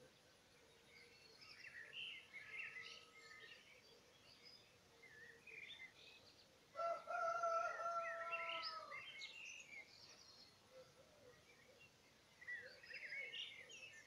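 Songbirds singing, a chorus of short chirps and warbled phrases. About seven seconds in, a louder call held on one pitch lasts roughly two seconds.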